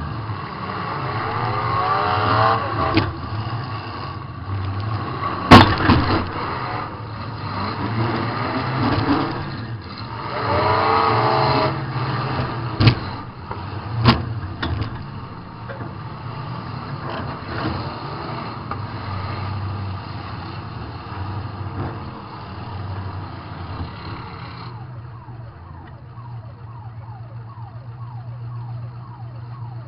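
Demolition derby car's engine revving up and down, heard from inside the car, with the sharp bangs of car-to-car hits: a loud crash about five seconds in and two more around thirteen and fourteen seconds. Near the end the engine runs more steadily.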